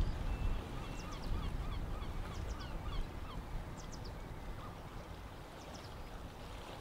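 A bird calling a quick run of about ten short, repeated notes between one and three seconds in, over a steady low rumble.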